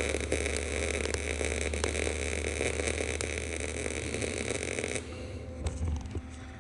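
Gas-shielded MIG welder arc crackling as casters are tack-welded onto steel cart legs; the arc cuts off about five seconds in, leaving a low electrical hum and a few small clicks.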